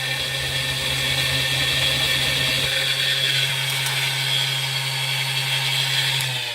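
Small electric power tool motor, likely cutting the brass rod, running steadily at speed with a high hiss over a low hum. It is switched off near the end and spins down with falling pitch.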